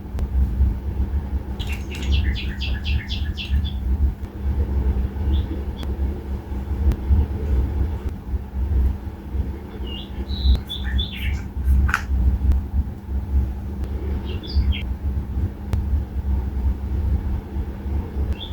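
Small songbirds chirping in scattered bursts: a quick run of about eight notes early on, another cluster of chirps around two-thirds through and a few more after it, all over a constant low rumble.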